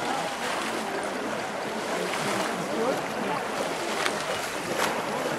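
Steady rush and splash of river water, with a couple of sharp clicks near the end.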